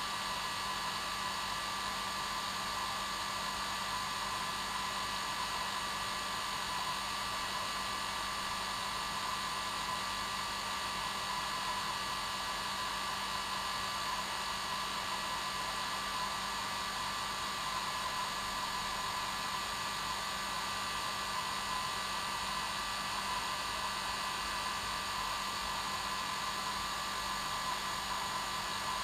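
Hair dryer running steadily on its normal setting, a constant whirring rush with a fixed whine and no change in speed.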